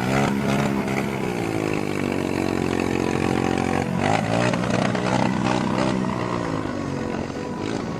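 Small engine of a homemade motorbike running, its pitch sweeping down and back up as the revs change, then again from about four seconds in.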